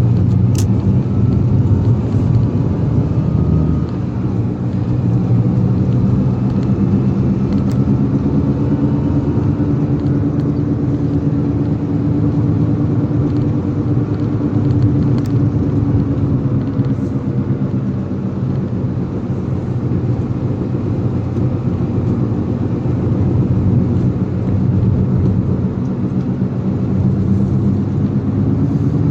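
A motor vehicle's engine running while on the move: a steady low drone whose pitch rises and falls slowly with engine speed, with a few faint clicks.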